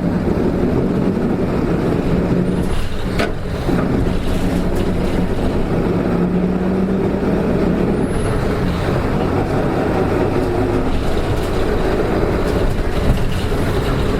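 Interior running sound of a Hino Rainbow RM (KK-RM252GSN) diesel city bus under way, its engine running with a steady hum that strengthens for a couple of seconds midway. There is a single knock about three seconds in. The engine sound is abnormal: it had gone strange on this bus.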